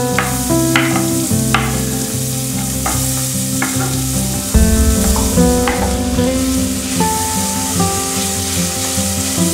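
Diced onion and minced garlic sizzling in melted butter in a stainless pot as the onion is tipped in and then stirred with a spatula. Background music of plucked notes plays over it, filling out in the bass about halfway through.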